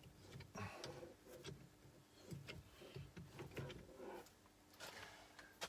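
Faint scattered clicks and knocks of hands working a bench vice and a length of electrical cable, over a steady faint hum.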